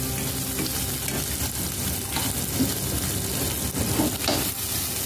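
Chopped garlic, onion and capsicum sizzling in olive oil in a stainless steel pan while a spatula stirs them, with a few light knocks of the spatula against the pan.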